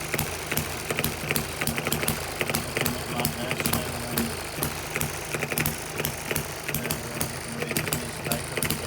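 Small model hit-and-miss engine running, a fast uneven ticking of sharp clicks over a steady low hum.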